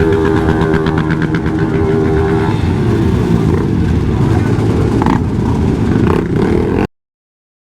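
Motorcycle engine running, with a steady pitched note for the first couple of seconds and a rougher, less even sound after that. The sound cuts off suddenly near the end.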